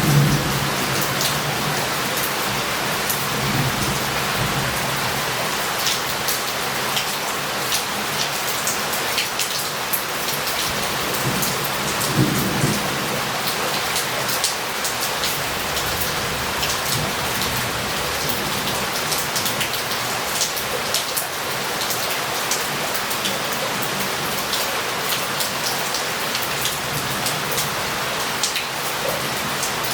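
Heavy rain falling steadily on a city street, with drops splattering close by. Low rumbles of thunder swell at the start and again about twelve seconds in.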